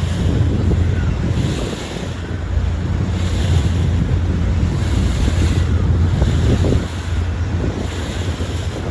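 Wind buffeting the microphone, a heavy steady rumble, over water rushing and splashing against a boat, the splashing surging about once a second.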